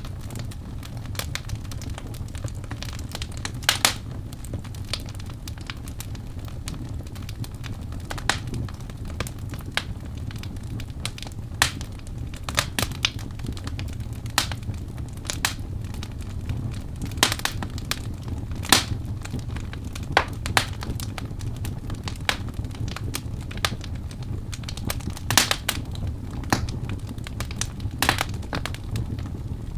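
Wood fire burning steadily, with a low rumble of flame and sharp, irregular crackles and pops from the burning wood.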